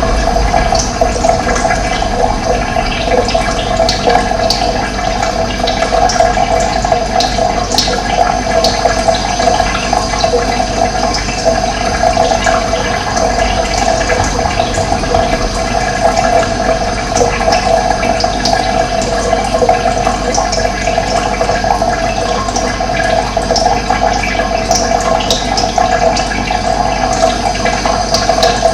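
Steady rushing of running water, with a few short, high bird chirps scattered through it.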